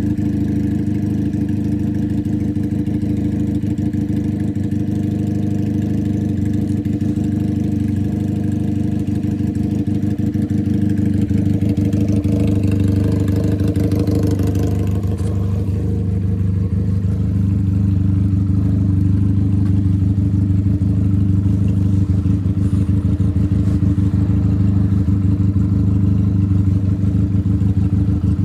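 Benelli 302 motorcycle's parallel-twin engine running steadily on an open exhaust with no silencer, a loud, deep exhaust note at or near idle. The note shifts a little about halfway through.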